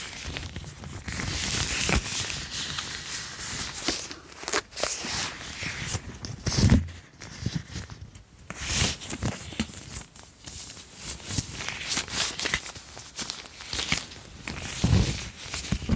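Close-miked ASMR object sounds: objects handled and tapped, giving irregular rustling and crinkling with many quick taps and a couple of heavier knocks.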